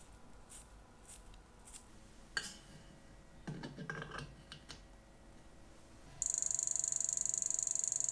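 Citizen 8110A chronograph movement being hand-wound, its crown clicking, then set into a timegrapher's holder. From about six seconds in the timegrapher's speaker plays the movement's amplified beat at 28,800 beats per hour: a loud, fast, even high-pitched ticking. The timegrapher reads the beat as badly out of adjustment, gaining about 160 seconds a day with a 9.3 ms beat error.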